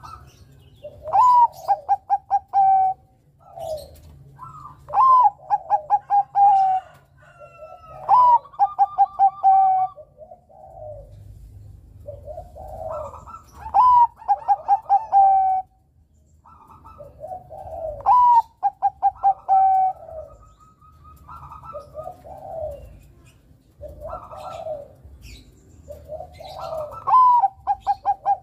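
Bangkok-type zebra dove (perkutut) cooing. It repeats its phrase every few seconds: a rising opening note, then a quick run of short, clipped coos.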